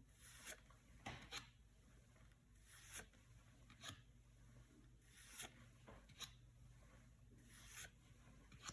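Yu-Gi-Oh trading cards being handled and slid against one another, a soft faint swish roughly every second at uneven spacing.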